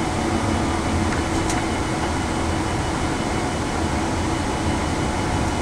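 Steady flight-deck noise of a Boeing 787 Dreamliner taxiing: an even hum and hiss from the air conditioning and the engines running at idle.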